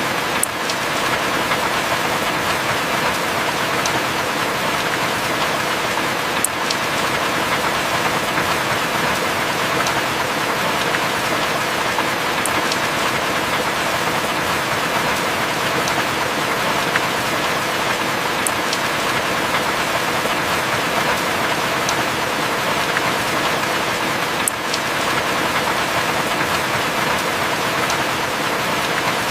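Heavy rain falling steadily, a dense even hiss with a few sharp drop ticks scattered through it.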